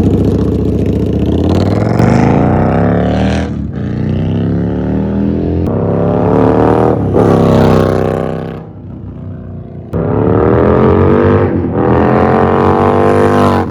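Indian Scout Bobber V-twin through a Freedom Pitch Black 2-into-1 Combat exhaust, accelerating hard: the engine pitch climbs, drops at each upshift and climbs again. About eight and a half seconds in it eases off, then about a second later it pulls hard again through another couple of gears.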